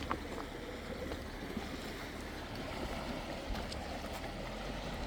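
Klamath River flowing, a steady rushing wash of water, with low wind rumble on the microphone and a few faint clicks.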